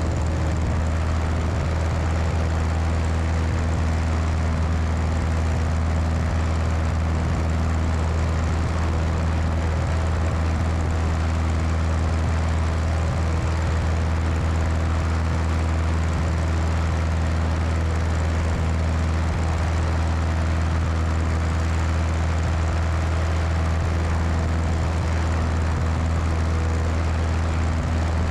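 Cessna 172's piston engine and propeller running steadily in flight, heard with wind rushing over a wing-mounted microphone. The engine drone holds a constant pitch and level throughout.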